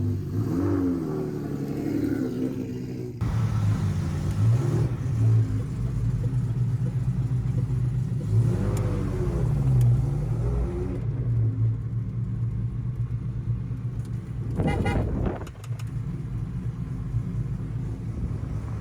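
Car engines running, with a few brief revs that rise and fall in pitch, and a short louder sound about fifteen seconds in.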